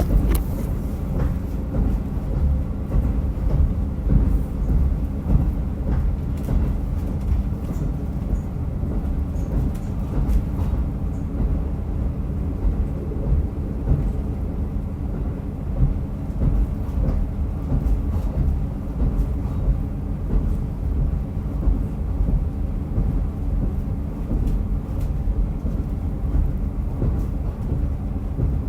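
Diesel railcar running along the line: a steady low rumble of engine and wheels on rail, with occasional faint clicks.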